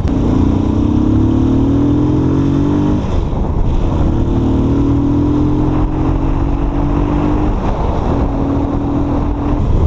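Motorcycle engine accelerating hard through the gears: the pitch climbs, drops at a shift about three seconds in, climbs again, and shifts once more about three-quarters of the way through, over a heavy rush of wind noise.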